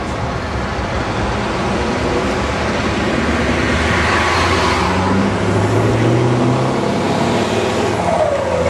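Scania 144L 530 truck's V8 engine with loud open exhaust pipes running and growing steadily louder as it approaches, with a falling tone in the last second.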